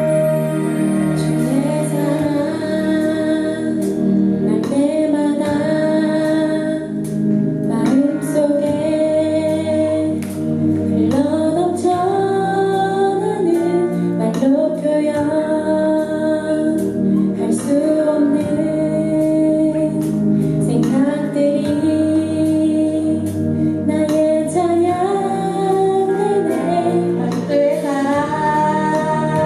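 A woman singing a Korean worship song over instrumental accompaniment.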